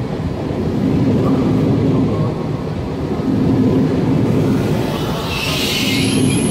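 PKP Intercity ED250 Pendolino electric train rolling slowly past at a platform: a loud, steady low rumble that swells and fades in a slow rhythm, with a brief hiss of higher noise about five seconds in.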